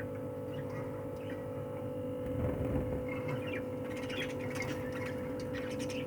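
Steady electrical hum, with a dull knock about two and a half seconds in and faint, short budgie chirps through the second half.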